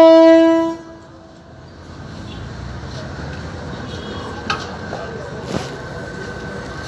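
Train horn giving one short blast of about a second, followed by steady background rumble with two sharp clicks later on.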